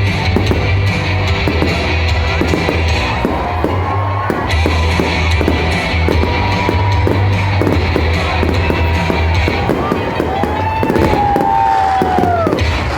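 Loud music playing, with a dense run of sharp crackling pops over it and a couple of gliding, falling whistles near the end.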